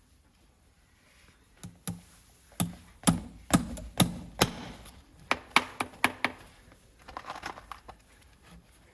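A farrier's hammer striking in an irregular run of about a dozen sharp knocks starting about a second and a half in, some with a short ring, followed by a brief light rattle near the end.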